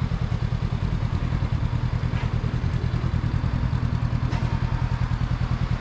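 Honda Deauville 700's V-twin engine running at low revs, with an even, low pulsing beat of about eight beats a second.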